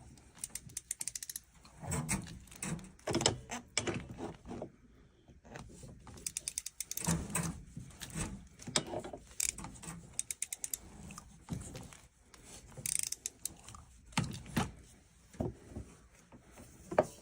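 Hand-squeezed ratcheting PEX-A expansion tool working stroke after stroke, with knocks and quick runs of clicking as it stretches the pipe end and ring to take a fitting.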